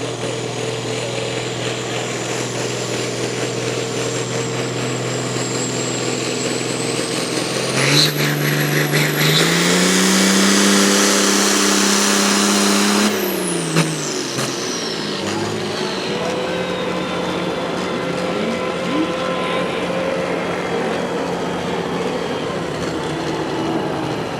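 A turbocharged pulling vehicle's engine running steadily, then revved hard for about five seconds starting about eight seconds in, with a high turbo whine rising and then falling away as it drops back to a lower, steady run.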